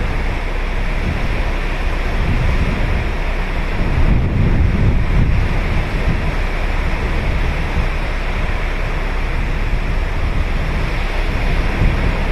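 Ocean surf breaking and washing on a sandy beach, mixed with wind buffeting the microphone as a low rumble. The surf swells about four seconds in and again near the end.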